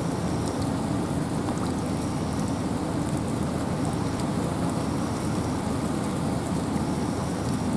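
Steady rain and wind in a forest: an even rushing, heaviest in the low range, with scattered raindrop ticks.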